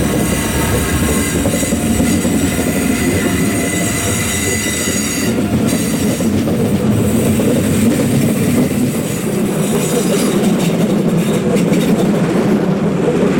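A train running on its rails: a loud, steady rumble, with a high, steady whine of several tones over about the first five seconds that then fades out.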